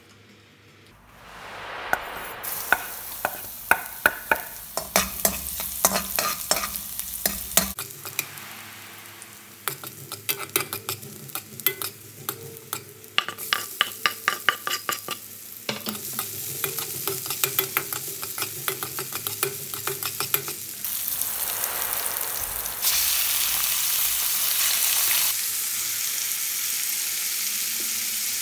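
Chopped garlic and onion sizzling in hot oil in a metal wok as they are stirred, with many sharp clicks of a utensil against the pan. Near the end the sizzle becomes a louder, steadier hiss as raw chicken pieces go into the wok.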